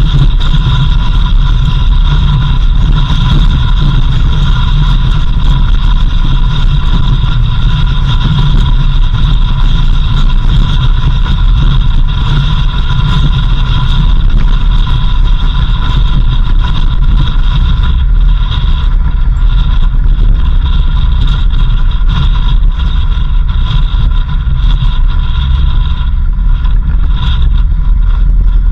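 A vehicle driving at a steady pace: a constant low rumble with steady high whining tones above it, unchanged throughout.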